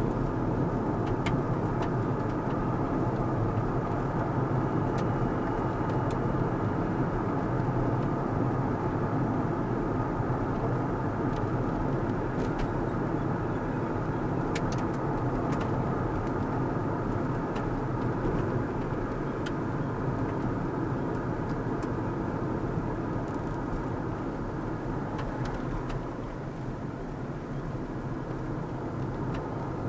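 Steady engine and tyre noise of a car being driven on the road, with a few faint ticks scattered through and the noise easing off slightly near the end.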